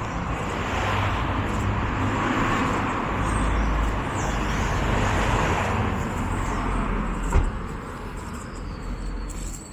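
A road vehicle driving past close by, its engine rumble and tyre noise swelling over the first few seconds, then fading away. A single sharp knock sounds near the end.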